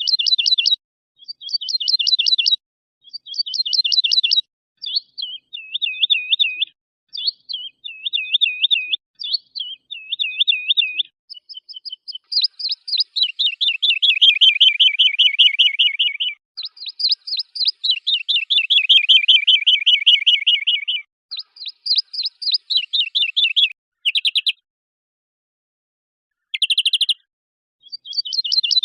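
Songbird song from an edited training mix: short trilled phrases, then a run of looping repeated notes, then two long fast trills of about four seconds each, with dead-silent gaps between the phrases. Near the end a few short phrases are split by a silence of about two seconds.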